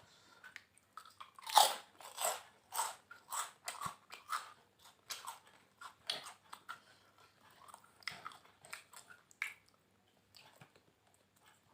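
A person biting and chewing crunchy food, a run of sharp crunches about one to two a second, loudest about one and a half seconds in and thinning out near the end.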